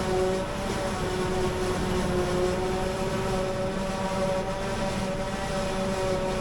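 Heavy silage-harvesting machinery running steadily under load: a continuous diesel engine drone with a steady whine over it.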